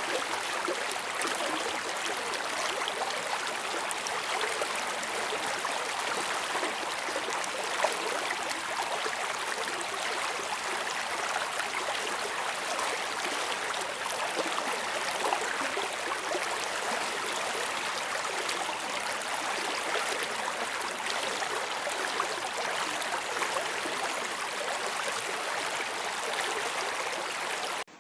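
A river flowing, a steady rush of water.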